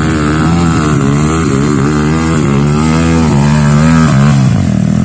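Trail motorcycle engine revving hard and unevenly, its pitch rising and falling again and again, then easing off near the end.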